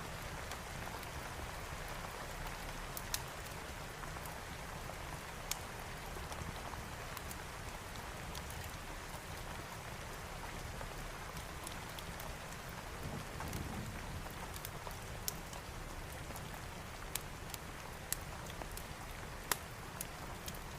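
Steady rain falling, with a wood fire crackling now and then in a few sharp pops.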